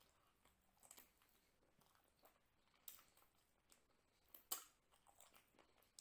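Faint, close-miked chewing of chicken biryani eaten by hand, heard as scattered short mouth clicks, the loudest a little past four seconds in.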